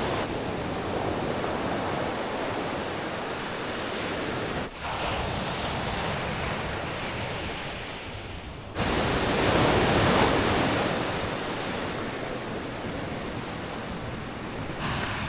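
Ocean surf rushing on the shore, a steady wash of noise that swells louder with a wave about nine to eleven seconds in. The sound breaks off briefly about five seconds in and comes back suddenly near nine seconds.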